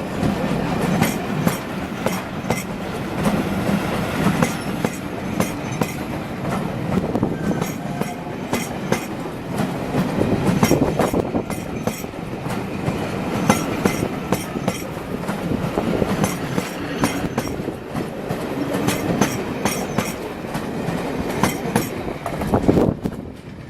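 A train rolling past at moderate level, its wheels clicking repeatedly over rail joints over a steady rumble.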